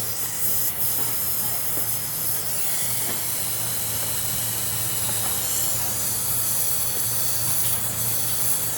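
Steady hissing with a low hum underneath.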